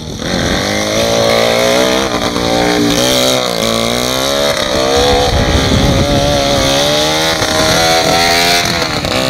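Jawa 350 type 638 two-stroke twin motorcycle engine in a home-made go-kart, running with the throttle opened and closed so that its pitch rises and falls again and again.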